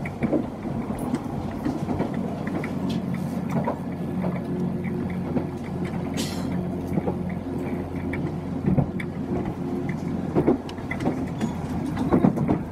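Chikuho Electric Railway train heard from inside the car while under way: a steady running hum with the wheels clicking over rail joints. The hum thins out about nine seconds in, and there is a short hiss about six seconds in.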